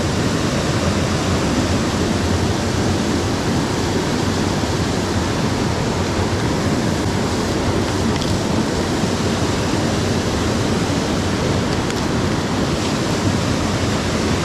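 Mountain headwater stream rushing steadily, a loud, even wash of flowing water.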